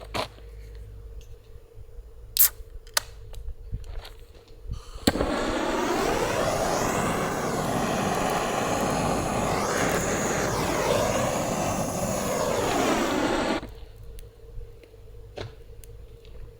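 Wood fire crackling with sharp pops, then about five seconds in a loud, steady rushing hiss cuts in, lasts about eight and a half seconds and stops abruptly, leaving the crackling again.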